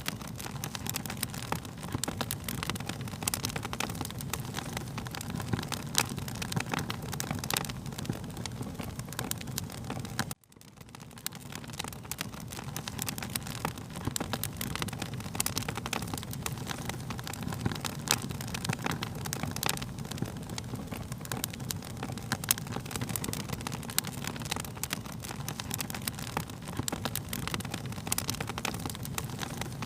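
Wood fire crackling: a steady low rush with frequent sharp pops and snaps. About ten seconds in the sound cuts out for a moment and then swells back.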